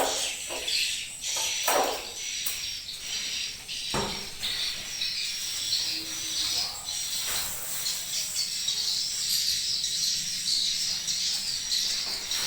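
Edible-nest swiftlets twittering continuously with high-pitched chirps, broken by a few sharp knocks.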